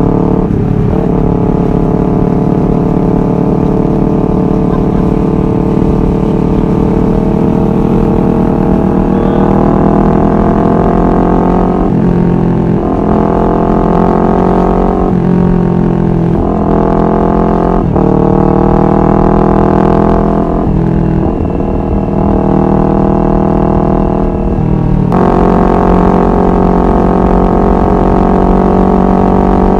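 Honda CBR250RR parallel-twin engine running under way. Its pitch climbs slowly at first, then falls and climbs again several times.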